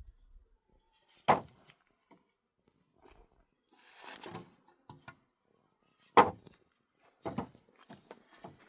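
A few sharp wooden knocks a few seconds apart, the loudest about a second in and about six seconds in, with a short scraping rustle in between, as wooden poles for a shade canopy are handled and struck.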